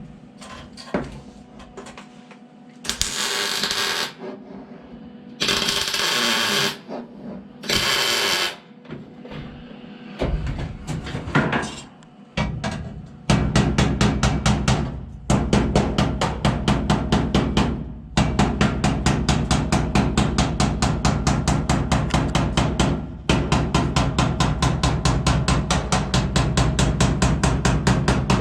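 Three short bursts of welding crackle in the first eight or so seconds. From about ten seconds in, a loud, steady, rapid rhythmic pulsing with a heavy low end takes over and runs on.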